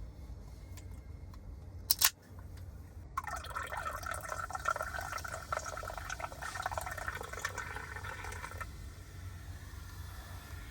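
A drink being poured into a cup for about five seconds, preceded by a sharp click about two seconds in, over a low steady hum.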